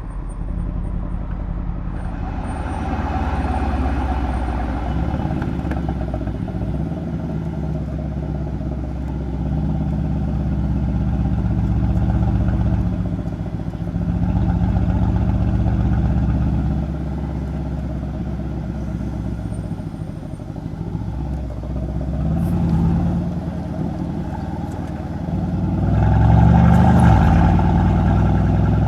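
Mercedes-AMG C63's M177 twin-turbo V8 exhaust while driving, the engine note rising and falling with the throttle several times. The loudest pull comes near the end.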